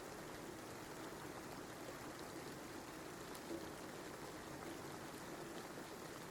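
Steady rain: an even, continuous wash of falling water with a few faint drop clicks and one slightly louder one about halfway through.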